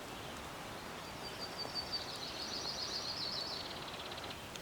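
A small songbird sings one long, fast trill of high repeated notes, starting about a second in and trailing off near the end, over a steady rushing background noise.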